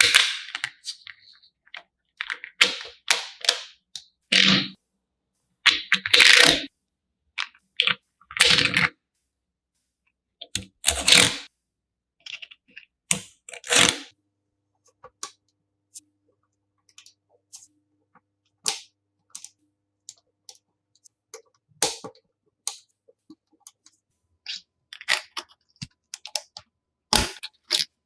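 Colored magnetic building pieces being handled and snapped together: irregular sharp clicks and clacks, some in quick clusters, with short pauses between.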